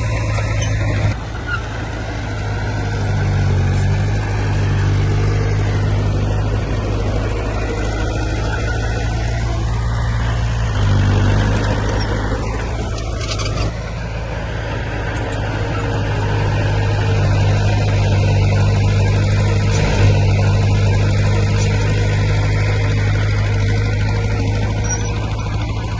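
Heavy diesel engines of earthmoving machinery running steadily, rising and easing in loudness as they work under varying load.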